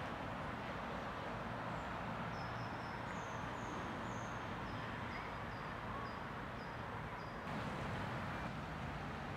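Steady outdoor background rumble with a small songbird repeating a short high chirp, two or three times a second, from about two seconds in until near the end.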